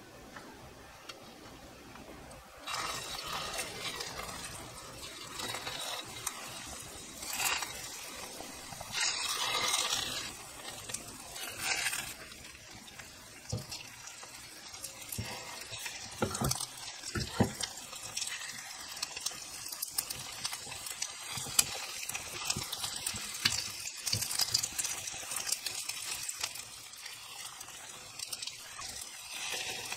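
Egg-battered, perilla-leaf-wrapped crab sticks sizzling in hot oil in a non-stick frying pan. The hiss starts about three seconds in and swells louder each time a piece is laid into the oil, with occasional light taps of chopsticks against the pan.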